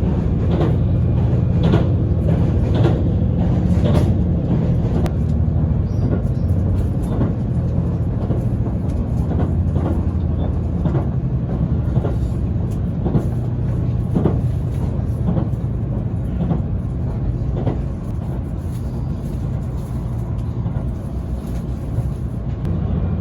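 JR limited express train Nanki heard from inside the passenger car while running: a steady low rumble with repeated clacks of the wheels over the rail, more frequent in the first few seconds.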